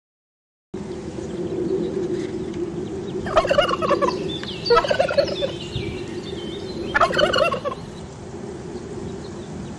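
Farm fowl calling three times, each a loud, rapid warbling call lasting under a second, over a steady low background hum.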